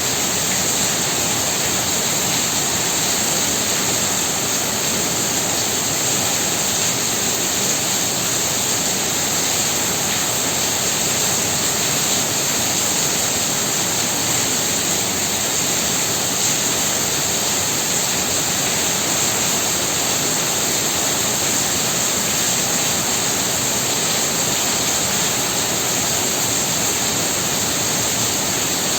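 Heavy rain falling steadily: a dense, even hiss with no single drops or gusts standing out.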